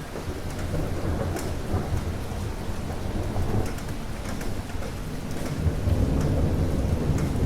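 Steady rain with scattered drops ticking, and a low rumble of thunder swelling about a second in and again more strongly near the end.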